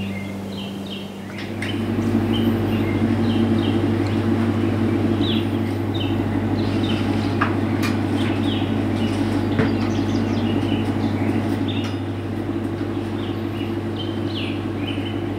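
Small birds chirping in quick repeated notes over a steady low hum, with a few sharp clicks.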